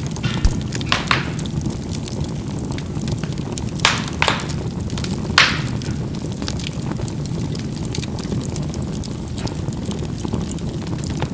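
Charcoal burning in a fireplace: a steady low rush of fire with sharp crackling pops of the charcoal bursting. A few loud snaps come in the first half, the loudest about five seconds in, and only faint crackles follow.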